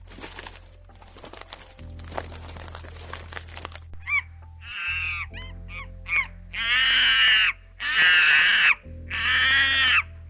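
A series of animal calls: a few short cries, then three longer harsh calls of about a second each, over a low steady hum. Noisy crackling comes before them.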